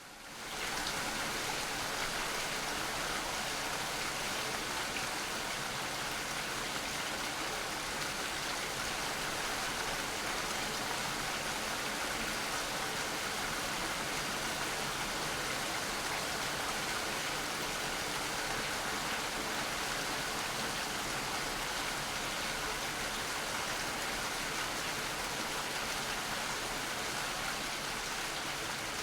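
Steady, dense rain falling, an even hiss without distinct drops standing out. It dips briefly at the very start, then runs on unchanged.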